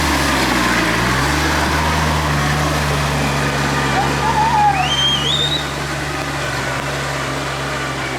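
Tractor engine running steadily under load, its pitch stepping up about a second in and then holding.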